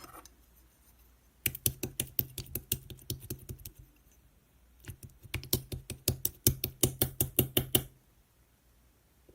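Slime being pressed and squeezed by hand, giving two runs of sharp clicks as trapped air bubbles pop, several clicks a second.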